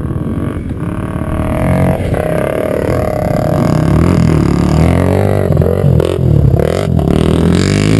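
Dirt bike engine running with a steady drone that wavers in pitch. It grows louder over the first four seconds or so, then holds.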